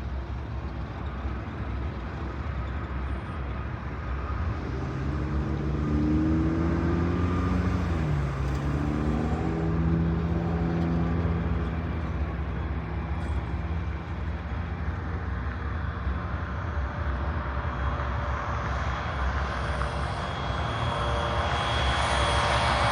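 A passing engine hums over a steady low rumble, its pitch dropping as it goes by about eight seconds in. Near the end a louder engine noise builds up.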